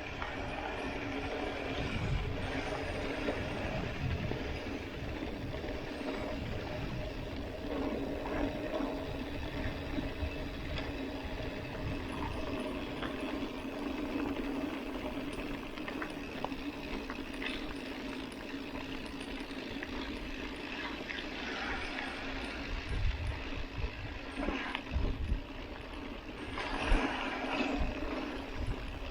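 Mountain bike rolling along a dirt road: steady tyre noise with a faint hum, broken by occasional knocks and rattles from bumps, which come more often near the end.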